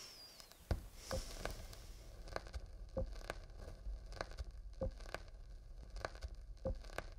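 Footsteps walking, a short thump about every half second.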